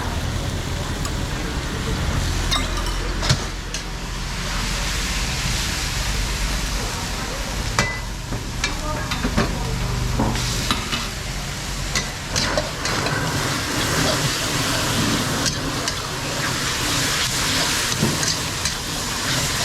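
Pad see ew, wide rice noodles with seafood, stir-fried in a wok: a steady sizzle, with frequent sharp knocks as the stirring utensil strikes the pan.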